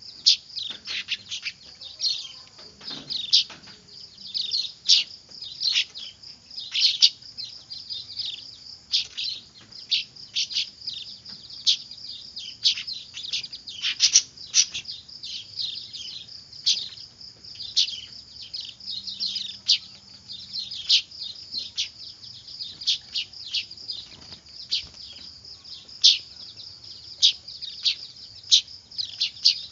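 Weaver-bird (manyar) chicks calling noisily: a dense, irregular stream of short, high chirps, several a second, over a continuous high chatter.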